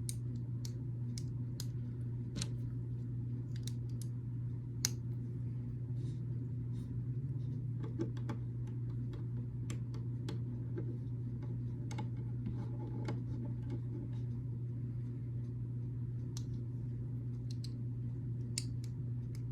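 Small plastic building bricks clicking and snapping as they are handled and pressed together, in irregular sharp clicks over a steady low hum.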